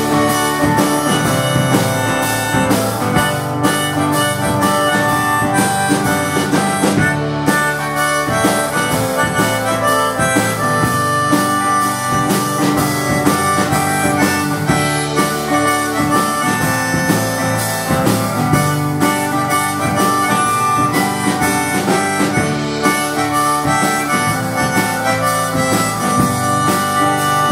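Band playing an instrumental passage of a song, with no singing.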